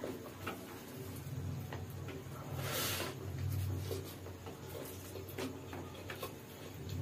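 Close-miked eating sounds of a man chewing chicken noodles and fried chicken: scattered wet mouth clicks and smacks over a low rumble, with a short hiss about three seconds in as noodles are drawn into the mouth.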